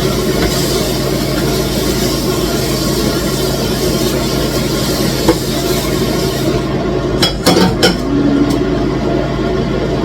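Steady hum and hiss of a pot of stew cooking on the heat, with a quick run of clinks of a utensil against the pot about seven seconds in.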